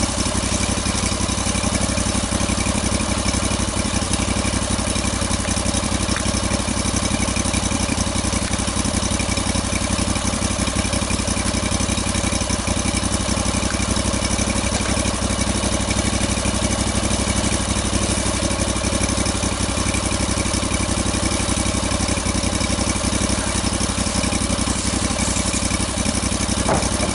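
An engine idling steadily at an even pitch and level.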